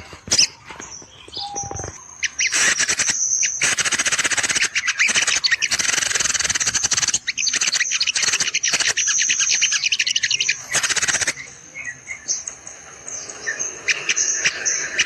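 Sogon birds chirping and twittering in quick, high-pitched bursts. A long, loud run of rapid chirping starts about two seconds in and stops suddenly about eleven seconds in, then softer twittering follows.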